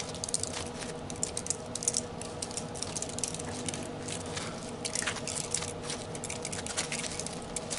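Thin copper magnet wire being pulled off the winding of a throttle-body motor by hand, making a quick, irregular run of small clicks and crinkles.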